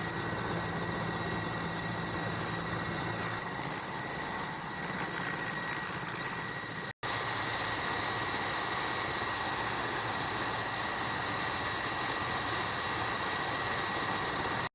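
Helicopter turbine engines and rotor running steadily, with a constant high whine. The sound breaks off for an instant about halfway through and comes back louder.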